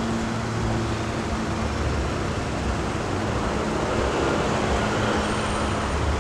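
Steady rumble of vehicle engines running, with a low steady hum.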